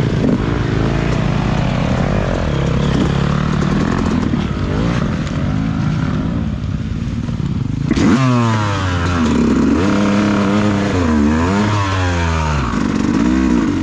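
Dirt bike engine running under throttle. About eight seconds in there is a sudden knock, and the engine then revs up and down several times, its pitch rising and falling.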